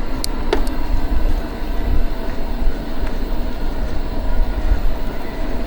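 Steady noise of a mountain bike on the move: wind buffeting the microphone and tyres rolling over a rough track, with a couple of short clicks in the first second.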